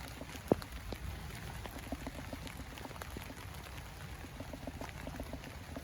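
Heavy rain, with many raindrops ticking close by and one loud drop striking about half a second in.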